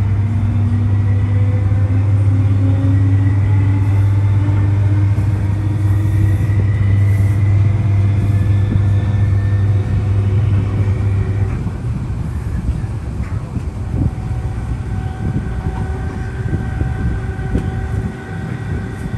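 Inside an MTR East Rail line Metro-Cammell EMU car running at speed: a strong low hum with a motor whine that slowly rises in pitch. About eleven and a half seconds in the hum stops and the sound drops to a quieter rumble of the running train, with a few knocks.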